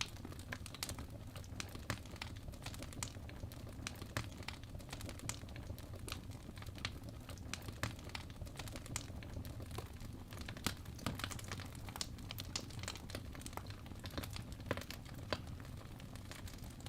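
Wood fire burning in a fireplace: steady low rumble of the flames with irregular crackles and sharp pops.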